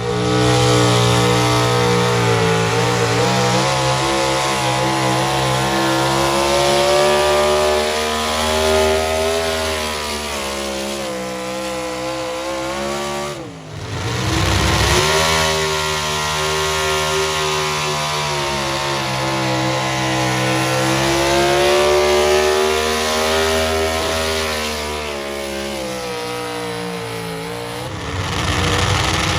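Pull vehicle's engine running hard under load, its pitch rising and falling as it works down the track. About halfway through it drops sharply for a moment, then climbs back up.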